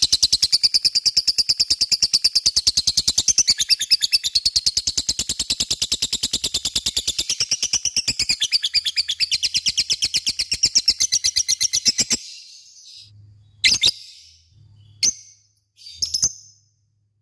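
Lovebird giving a long 'ngekek' chatter: a fast, evenly spaced run of high, shrill notes that stops about twelve seconds in, followed by three short single calls.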